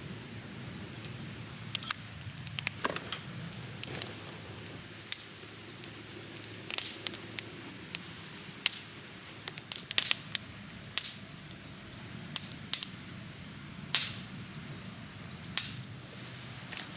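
Wood campfire crackling, with irregular sharp snaps and pops over a low steady background.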